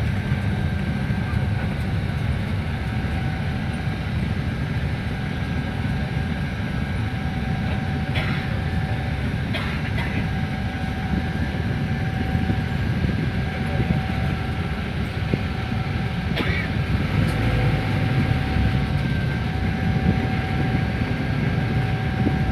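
Steady low rumble of an airliner's cabin as the plane taxis after landing, with a faint steady whine over it and a few short clicks.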